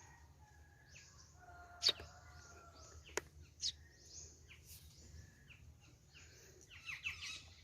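Sparrow chirping in short, high tweets, several in quick succession near the end. Two sharp knocks, about two and three seconds in, are the loudest sounds.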